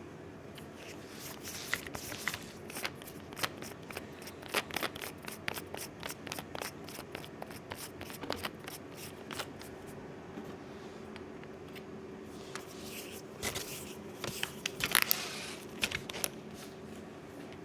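Model railway track being cut to length by hand: a long run of quick, irregular sharp clicks, then a few longer scraping strokes near the end.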